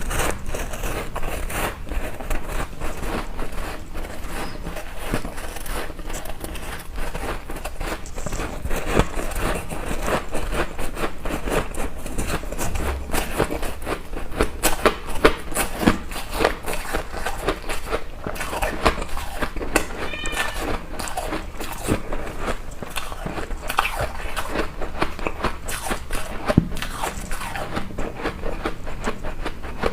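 Person biting and chewing ice close to the microphone: a continuous stream of crunching and cracking.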